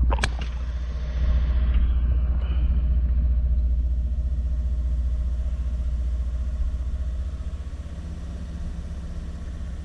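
Volvo 2.4 non-turbo five-cylinder petrol engine running with the revs held steady as a low, even drone, which drops a little about seven seconds in. At this rev the engine has an intermittent misfire on cylinder 1, felt as a shake.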